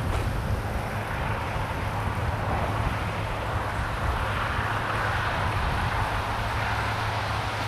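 Steady vehicle noise: a low hum under a rushing haze that swells a little about halfway through.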